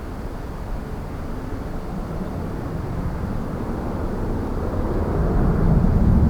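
Jet airliner engines: a low rumble that grows steadily louder.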